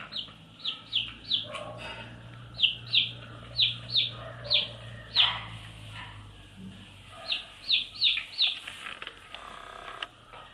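Baby chicks peeping: short, high calls that fall in pitch, coming in quick runs of four or five with pauses between.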